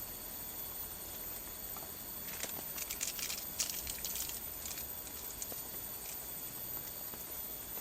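Steady outdoor background hiss with faint high steady tones. About two and a half seconds in comes a burst of quick crackling clicks lasting just over a second.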